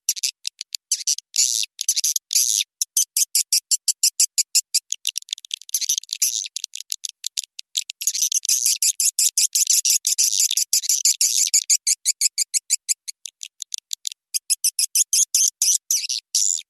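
Recorded swiftlet calls played as a lure for a swiftlet house: a fast, continuous stream of sharp high chirps and twitters, several a second, cut off below the bird's range so there is no low sound at all.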